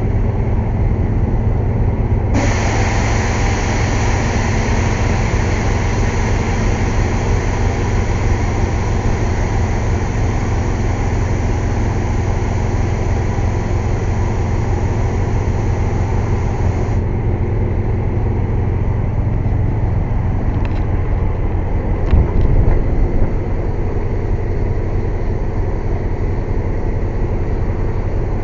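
Air compressor engine running steadily with a low drone. From about two seconds in until about two-thirds of the way through, compressed air hisses loudly through an air line, cutting off suddenly; the air is being used to air up a truck tire. A short knock comes near the end.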